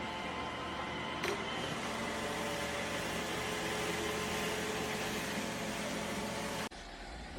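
A steady mechanical whirr with a hum of several steady tones, a single click about a second in, cutting off abruptly near the end.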